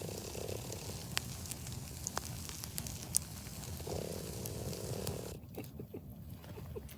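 Campfire burning and crackling, with a few separate sharp pops about a second apart.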